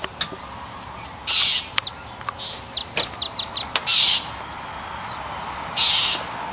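Blue jays giving harsh, raspy alarm calls: three loud jeers about one and a half and four and six seconds in, with a quick run of short, high, falling notes between them. These are mobbing calls aimed at a cat they are harassing.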